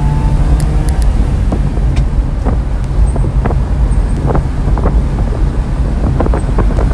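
1995 Honda mini truck's small three-cylinder engine pulling the truck up to speed, heard from inside the cab as a steady low drone, with scattered clicks and rattles throughout.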